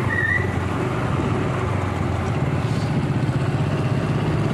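Motor scooter and motorcycle engines running steadily on the move, a low even hum under road noise.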